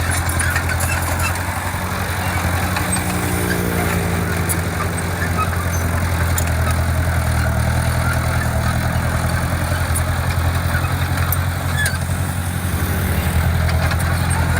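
Heavy construction machine's diesel engine running steadily under work, a deep even engine note that holds throughout, with faint clicks and clanks over it.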